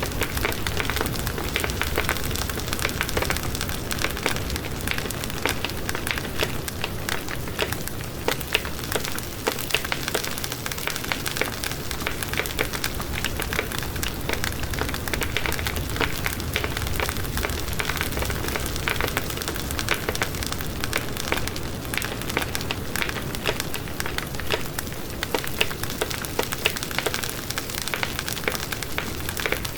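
Wood fire crackling and popping steadily, with many small sharp snaps over a constant hiss of flames.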